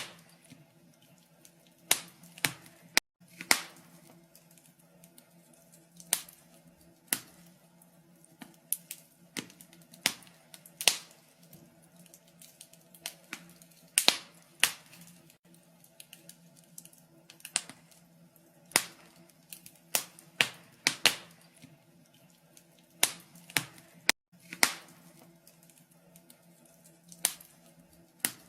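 Wood fire crackling in a fireplace: irregular sharp pops and snaps of burning wood, some close together and some a few seconds apart, over a faint steady hum.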